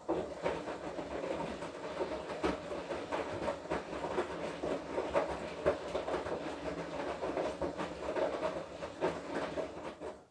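Washing machine drum turning in the wash cycle, the wet clothes tumbling with irregular knocks and clatter over a steady hum. It starts suddenly and stops after about ten seconds, the drum's stop-start rhythm of a wash cycle.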